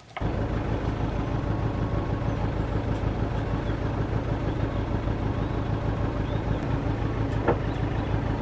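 Sailboat's auxiliary engine running steadily under way, with an even low rhythmic throb; it cuts in abruptly just after the start.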